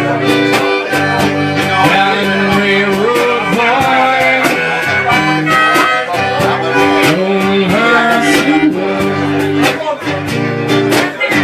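Instrumental break in a live folk ballad: steadily strummed acoustic guitar with a sustained melody line played over it, some notes bending in pitch.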